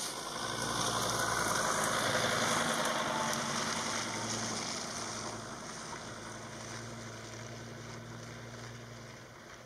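Jeep Grand Cherokee driving past through mud. Its engine swells over the first couple of seconds, then fades steadily as it pulls away.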